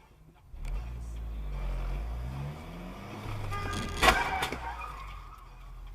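A car engine runs and speeds up, its pitch rising in repeated sweeps. About four seconds in there is a sudden loud burst with ringing tones, lasting about a second.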